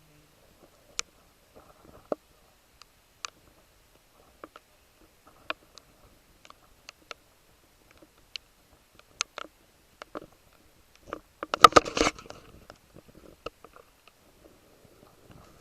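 Scattered raindrops hitting in irregular sharp ticks, about one a second. A dense, louder burst of clatter comes around eleven to twelve seconds in.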